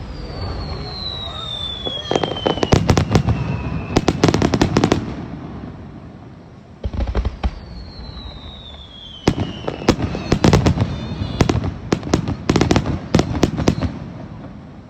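Aerial fireworks: a high whistle sliding down in pitch over several seconds, with rapid runs of sharp crackling bangs. About seven seconds in, a deep launch thud starts a second round of the same whistle and crackling bangs.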